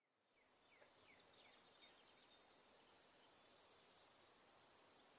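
Very faint bird chirps fading in, short falling notes repeating every few tenths of a second over a soft hiss.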